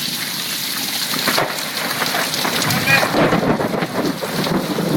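Heavy summer downpour hissing steadily, with a rumble of thunder swelling about three seconds in.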